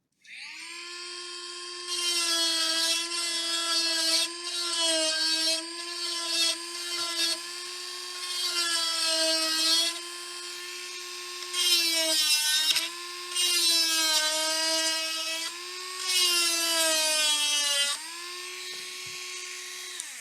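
A small electric motor tool whining at a steady pitch, with louder hissing stretches every second or two. Its pitch sags briefly about two-thirds of the way through and again near the end, then the tool is switched off.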